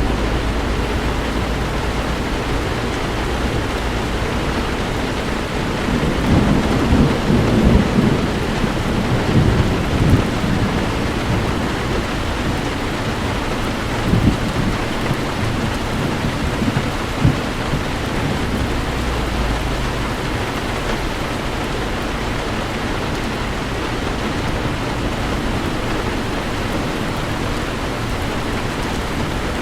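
Heavy rain hissing steadily on a car driving through a storm, over a low road drone. About six seconds in a long rumble of thunder swells and rolls for several seconds, and two shorter rumbles follow a little later.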